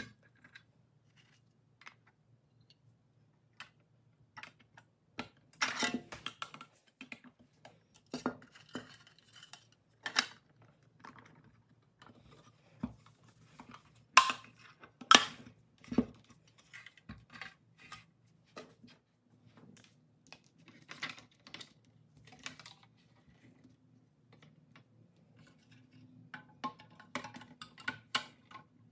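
Light clicks, taps and knocks as a toy truck's painted steel cab and clear plastic window insert are handled and pressed together, with two sharper knocks about halfway through, over a faint steady low hum.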